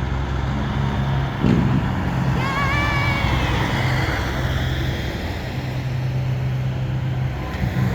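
Big-rig truck engines running steadily as the trucks roll by, with a short thump about one and a half seconds in and a brief high, wavering tone a second later.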